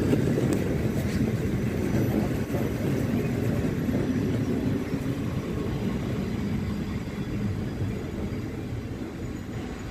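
PKP Intercity passenger coaches rolling along the platform, a steady rumble of wheels on rail that slowly fades.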